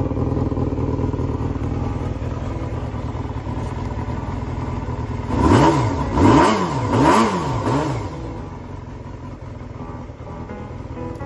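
Honda Jade 250 inline-four motorcycle engine idling, revved three times in quick succession about halfway through, the pitch rising and falling with each blip, then settling back to idle.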